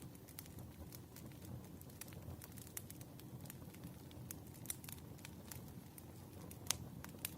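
Wood fire crackling: a steady low rumble of burning logs with irregular small pops and snaps, and one sharper pop near the end.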